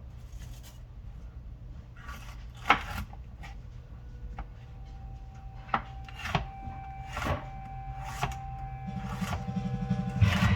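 Kitchen knife on a wooden chopping board: a few scattered taps and scrapes, about half a dozen spread over several seconds, over a low steady hum. Guitar music comes in near the end.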